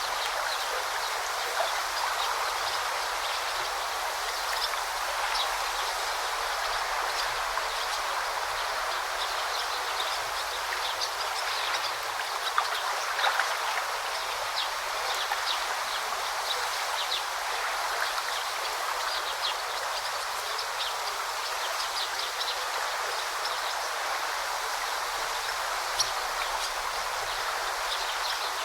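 A stream babbling steadily, with many small splashes and trickles scattered through it.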